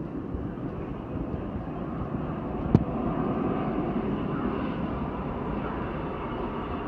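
Jet airliner approaching to land, its engines making a steady rushing rumble that grows slightly louder, with one sharp click a little before the middle.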